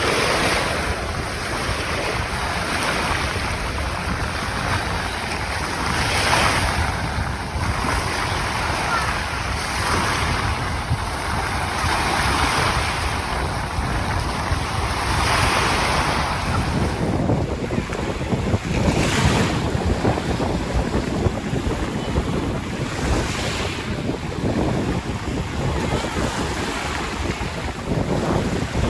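Caspian Sea waves washing onto the shore, surging every few seconds, with wind buffeting the microphone as a low rumble.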